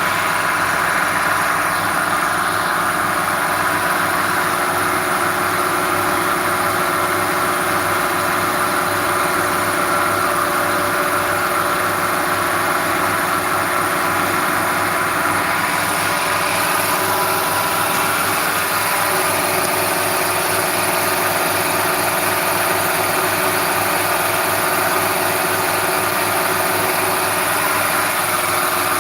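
A motor-driven machine running steadily, a continuous mechanical hum with several steady tones under it.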